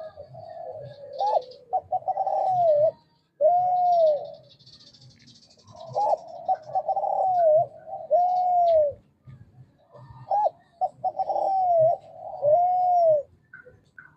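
Male spotted dove cooing in repeated song phrases, each ending in a drawn-out arching coo, with short pauses between phrases.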